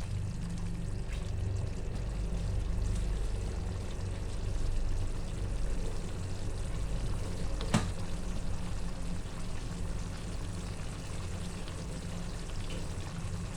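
Pot of chicken in coconut-milk gravy cooking on the stove, a steady sizzling, bubbling hiss, with one sharp knock about eight seconds in.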